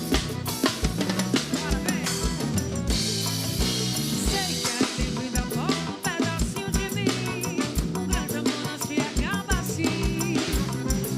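Instrumental band music with a drum kit: a steady kick-drum beat under a melody.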